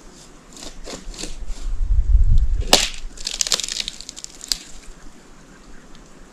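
Dry twigs or sticks being snapped and crunched: a run of short cracks, with a low thump and then one sharp snap near the middle.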